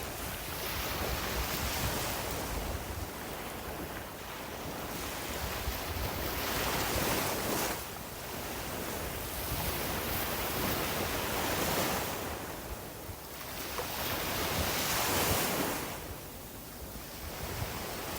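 Sea waves breaking and washing up a beach, the surf swelling and ebbing every few seconds, with wind buffeting the microphone.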